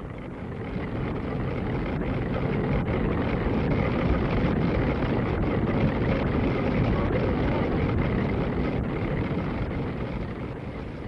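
Steady din of woolen-mill machinery, a dense mechanical rumble and hiss that swells up over the first couple of seconds and eases a little near the end.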